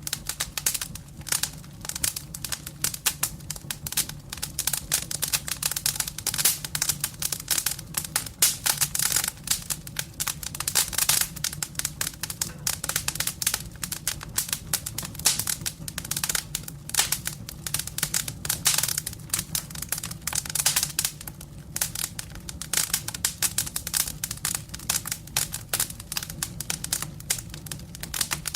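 Firewood burning in a fireplace: a steady run of irregular crackles and pops over a low hum.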